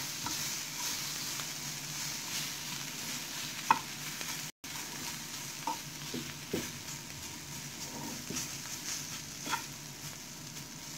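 Spice-coated bitter gourd rings sizzling as they fry in oil in a nonstick pan, stirred and turned over, with a few short clicks of the utensil against the pan.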